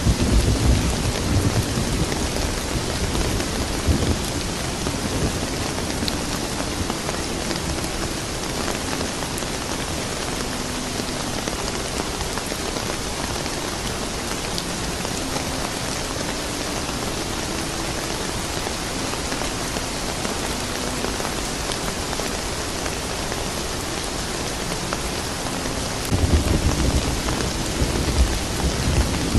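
Steady rain falling, with low thunder rumbling in the first few seconds and again near the end.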